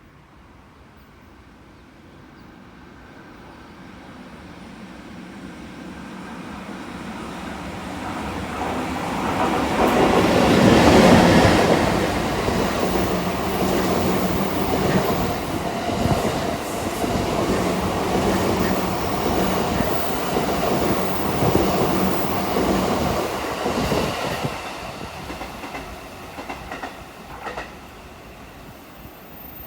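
Locomotive-hauled delivery train carrying new E235 series 1000 cars approaching and passing close by, loudest about eleven seconds in. The wheels clatter over rail joints as the cars roll past, and the sound fades as the train moves away near the end.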